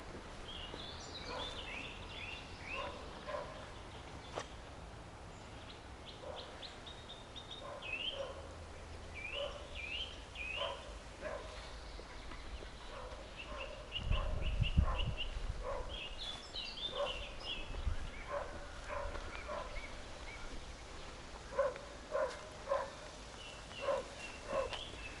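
Footsteps walking steadily along a forest path, about one or two steps a second, while songbirds sing short chirps and trills. A brief low rumble comes about halfway through.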